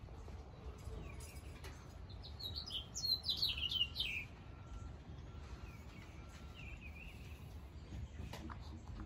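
A songbird singing a quick run of high, sliding chirps about two to four seconds in, then a few fainter chirps, over a faint low outdoor rumble.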